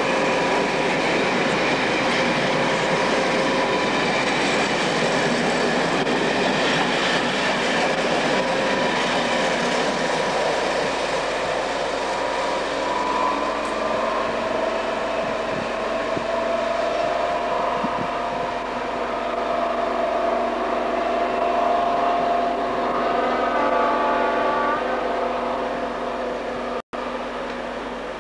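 The coaches of a Class 55 Deltic-hauled passenger train rumble and clatter past close by. The train then draws away, and a steady whine lingers as it recedes. The sound cuts out for an instant near the end.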